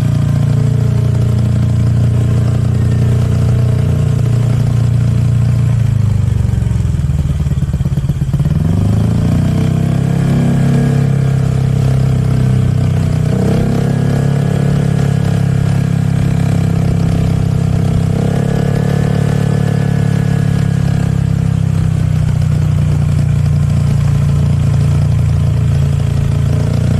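Honda motorcycle engine running under way. Its pitch falls about six seconds in, climbs again a couple of seconds later, and rises once more about halfway through.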